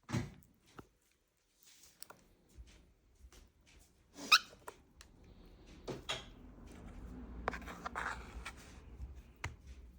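A cockatiel at feeding time: scattered small clicks, with one short, loud, high call that bends in pitch about four seconds in.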